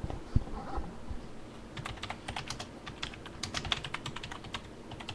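Typing on a computer keyboard: a quick run of keystrokes starting about two seconds in, after a single low thump near the start.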